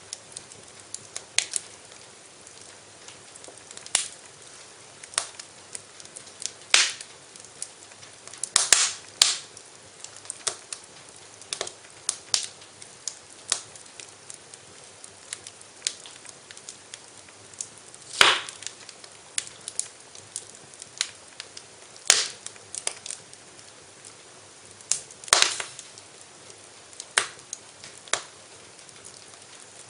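Wood fire crackling in a fireplace: sharp, irregular pops every second or so over a low steady hiss, with a few louder cracks.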